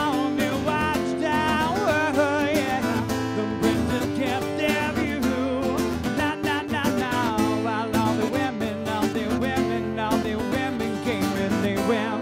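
Live acoustic guitar music: strummed acoustic guitar with a wavering melody line over it, in an instrumental passage between sung verses.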